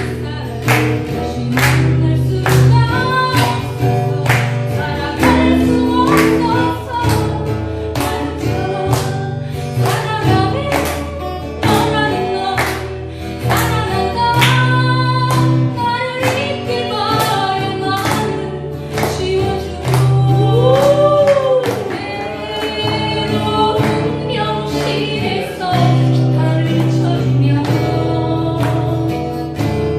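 A group singing along to strummed acoustic guitars, with a steady strumming rhythm throughout.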